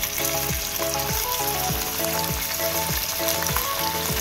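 Raw chicken pieces sizzling as they are added to hot mustard oil in a frying pan. Background music with a steady beat plays over it.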